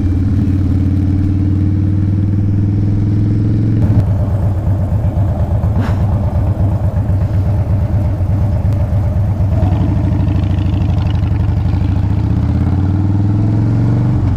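2012 Harley-Davidson Dyna Fat Bob's Twin Cam 103 V-twin engine running on the move, a steady low drone. About four seconds in it changes to an even pulsing beat for several seconds, then settles back to a steady note.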